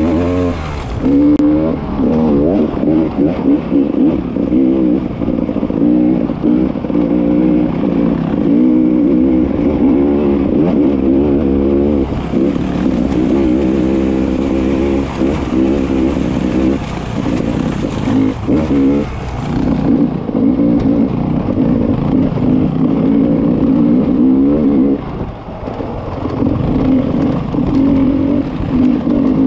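Beta 300 RR two-stroke enduro motorcycle engine revving up and down without pause as the rider throttles on and off. There is a short lull about 25 seconds in before the revs pick up again.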